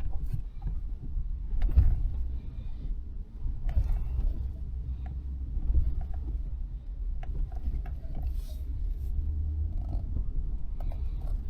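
Pickup truck driving slowly down a rough dirt trail, heard from inside the cab: a steady low rumble with scattered knocks and rattles as it goes over bumps.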